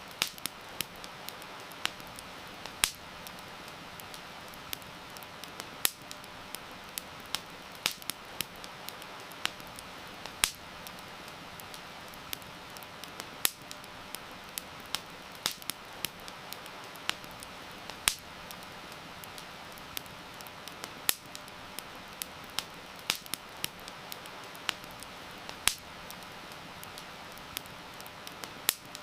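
Campfire crackling, with sharp pops and snaps at irregular moments, some much louder than the rest, over a steady hiss of rain.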